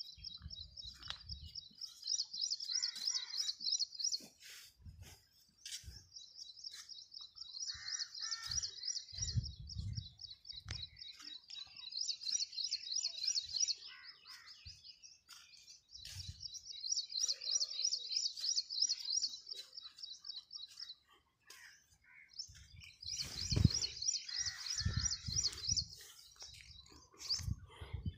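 A small bird's high, rapid trill, sung in bursts of a second or two and repeated every few seconds. Scattered low thumps come in between, the loudest near the end.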